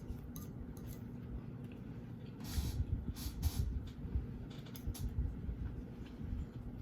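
Close-up chewing and crunching of fried chicken, with a run of louder crunches in the middle, over a steady low hum.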